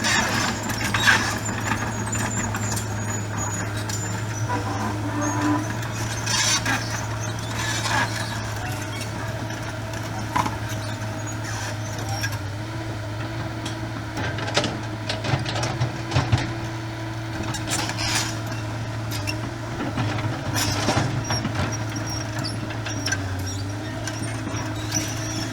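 Kobelco SK250 LC tracked excavator travelling, its diesel engine running steadily under many irregular clanks and rattles from the machine as it moves.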